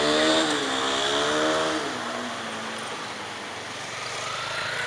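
A motor vehicle's engine revving, its pitch rising and falling, then dying away about two seconds in.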